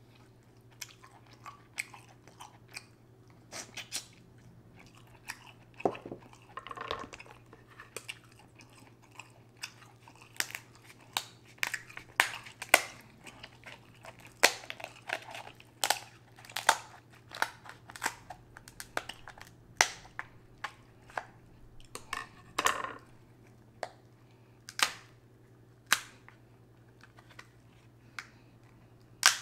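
A person eating a sauce-drenched seafood boil close to the microphone: wet chewing and smacking, with irregular sharp clicks and cracks, sometimes several a second.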